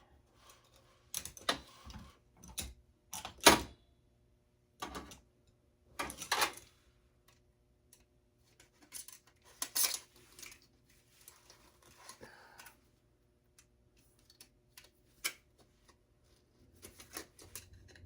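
Irregular metallic clicks, taps and clinks of a screwdriver and small metal parts as a computer component is taken apart by hand, the loudest knock about three and a half seconds in.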